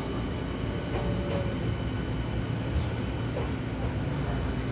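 Steady rumble and low hum of a Hankyu train car heard from inside, running and slowing as it pulls into a station, with a faint falling motor tone about three seconds in.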